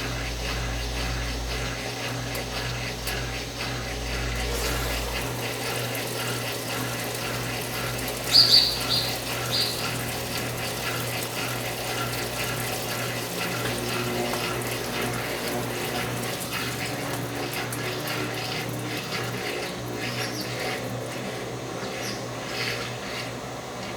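Water running steadily in a Brastemp 9 kg washing machine, as it fills or pumps water, under a steady electrical hum. A few brief high chirps come about eight seconds in.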